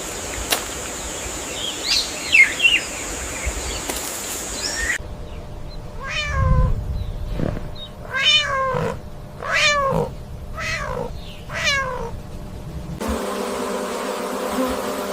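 A cat meowing over and over, five or six separate meows about a second apart, each rising then falling in pitch. It is set between other clips: before it, a steady high whine with a few short chirps; after it, a low steady hum.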